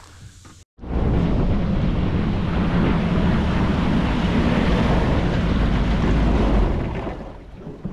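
Small boat under way: wind buffeting the microphone over rushing water and motor noise. It starts abruptly about a second in, holds steady and fades near the end.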